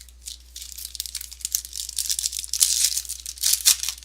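A trading-card pack's wrapper being torn open and crinkled by hand, a dense run of crackling tears that grows louder toward the end.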